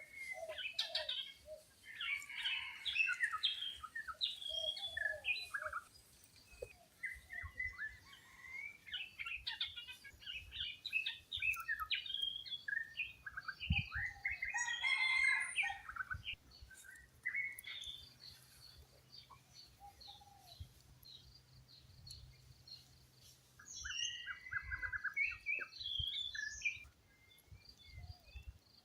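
Birds chirping, with many short, overlapping calls in busy bursts that thin out into quieter gaps between them.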